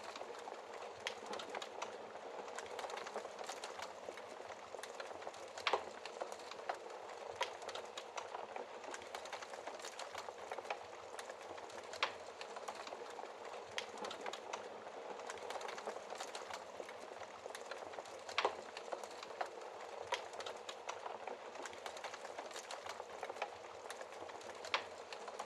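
Wood fire burning in a fireplace: a steady hiss of flames with a constant scatter of small crackles and a few sharper pops, one about every six seconds.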